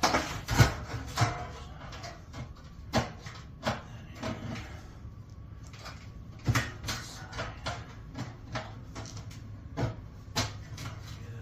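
Bent sheet-metal duct pieces being handled and fitted together: irregular clanks and knocks of metal on metal, about a dozen, the loudest near the start and again about six and a half seconds in.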